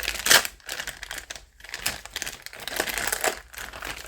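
Plastic parts bags crinkling and rustling in irregular bursts as they are handled, loudest about a third of a second in.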